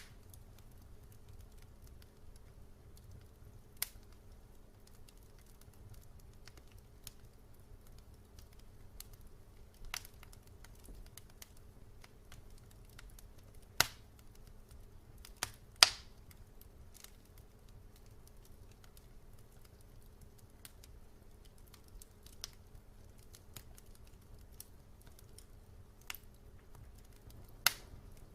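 Wood fire burning in a fireplace: sparse sharp crackles and pops a few seconds apart over a faint low rumble, with the loudest pops about two-thirds of the way through and near the end.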